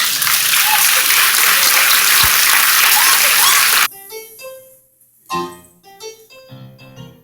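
Audience applauding loudly for about four seconds, stopping abruptly. A piano then starts playing the intro to the next song.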